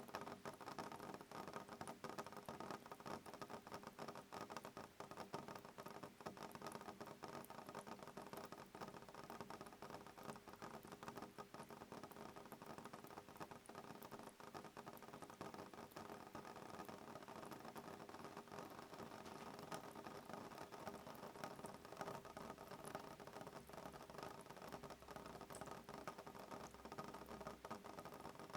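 Soft rain pattering on a window: a dense, steady patter of many small drops, with no thunder.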